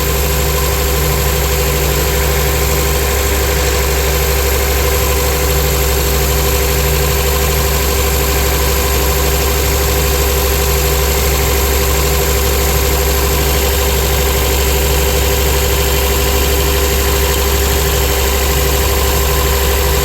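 2004 Honda Accord engine idling steadily but rough, with a hard miss on one cylinder; the owner suspects the ignition coil or spark plug on that cylinder.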